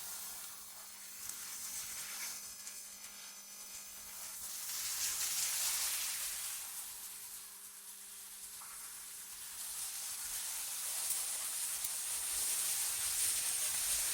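AI-generated wind: a high hiss that swells and fades in slow gusts, loudest about five seconds in and again near the end, over a faint steady low hum.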